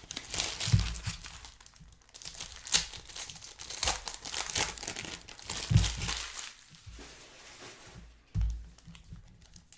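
Trading-card pack wrappers being torn open and crinkled, in irregular crackling bursts, with a few dull thumps between them.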